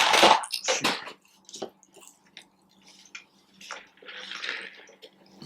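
Close-up eating sounds: a loud bite at the start, then wet chewing and small mouth clicks, with a soft noisy swallow or sip near the end.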